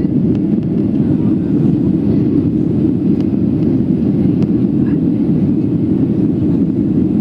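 Steady, low drone inside the cabin of a Boeing 757-236: its two Rolls-Royce RB211-535E4 turbofans and the airflow over the fuselage, with no change in pitch or level.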